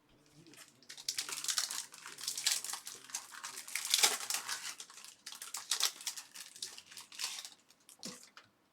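Foil trading-card pack wrapper crinkling and being torn open, a dense crackly rustle with its loudest sharp rip about four seconds in.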